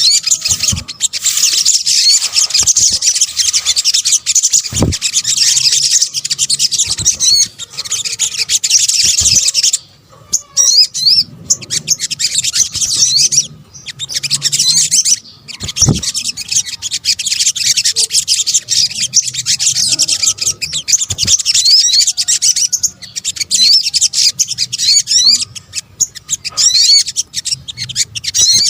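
Recorded song of the sogok ontong, a sunbird-family bird, played as a lure call: a dense stream of rapid high-pitched chirps and trills, broken by two short pauses.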